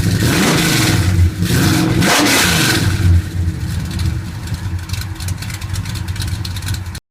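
American muscle-car V8 engine revved twice in quick succession, each time rising and falling in pitch, then running more quietly at a steady speed. The sound stops abruptly near the end.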